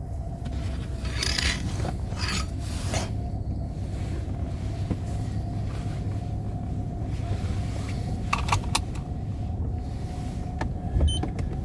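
Mercedes-Benz W126 500 SE's V8 running steadily after a cold start, without misfire on new coils and spark plugs. Scattered scraping and clicking noises sit over the engine sound, a few near the start and a cluster near the end.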